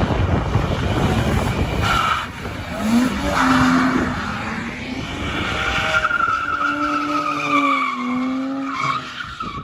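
Car tyres squealing and skidding with the engine running hard, the pitch gliding up and down over several seconds. It starts abruptly.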